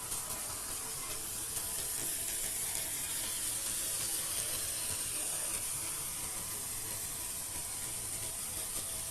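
Small DC gear motor running steadily, driving the paddle wheels of a thermocol boat, with a steady hiss of churned water.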